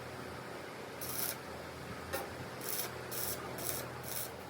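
A series of short hissing or rasping strokes in a metal workshop, one about a second in and then four more in quick succession, about two a second, over a low steady hum.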